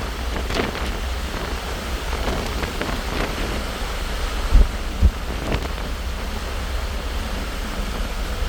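Wind rushing over the microphone on a ferry's open stern deck at sea, a steady hiss with a low rumble, and two brief low thumps on the microphone about halfway through.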